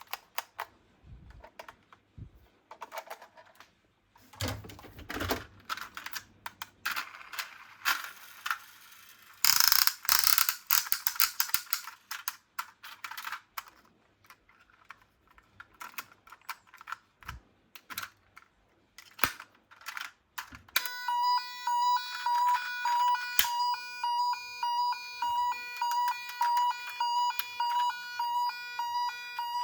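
Small toy cars clicking and clattering as they are handled, with a louder rattling stretch about a third of the way in. About two-thirds in, a toy police car's electronic siren starts: a high, fast-pulsing beeping tone that repeats steadily.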